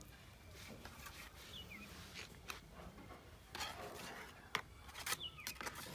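Intermittent rubbing and scraping from hand work on a car wing panel, with scattered sharp clicks, more of them in the second half. A couple of faint short chirps are heard among them.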